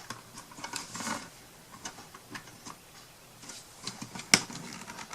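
Scattered light clicks and taps of small craft pieces being handled on a work table, with one sharper click about four seconds in.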